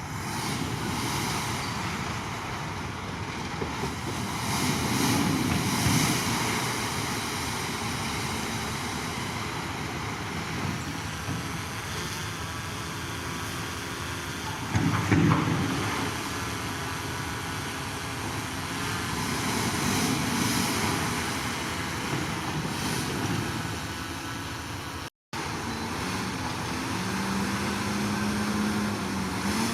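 Heavy diesel earthmoving machinery running steadily, the engine swelling under load twice, with one loud sudden clank or bang about halfway. Near the end the sound cuts out for a moment, then a steady low engine tone comes in.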